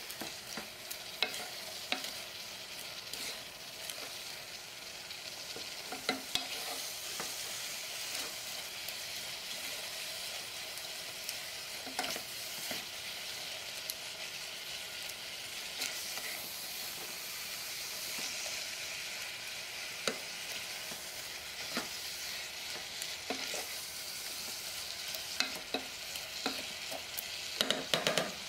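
Bean sprouts, fernbrake and beef in pepper sauce sizzling in a nonstick pot while a wooden spatula stirs them: the vegetables are being stir-fried in the seasoning. Steady sizzle with scattered knocks of the spatula against the pot, several in quick succession near the end.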